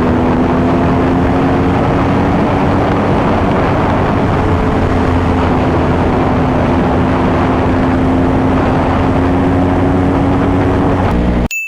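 Motorcycle engine running at a steady high pace under heavy wind noise on the rider's microphone; its note rises slightly and then holds. Near the end the sound cuts off suddenly and a single high ding rings.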